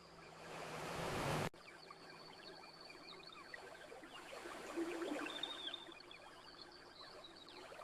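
An ocean wave washes in, swelling for about a second and a half, then cuts off abruptly. A quieter campfire crackle of small pops and ticks follows, with faint high chirps.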